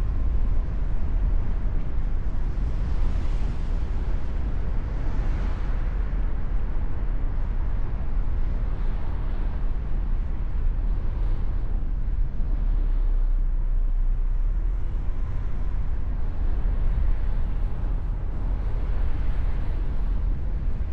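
Mustang convertible driving: a steady low rumble of engine, tyre and wind noise with an even hiss over it, no sharp events.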